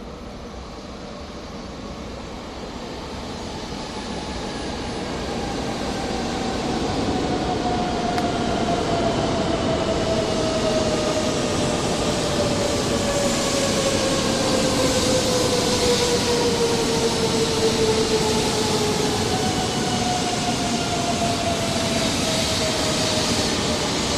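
Joetsu Shinkansen train pulling into a station: its running noise grows louder over the first several seconds as it comes in. Through the noise, a whine of several tones falls slowly in pitch as the train slows.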